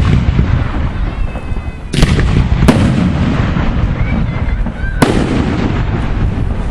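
Aerial firework shells bursting: three sharp bangs about two, two and a half and five seconds in, over a continuous rumble and crackle of other bursts.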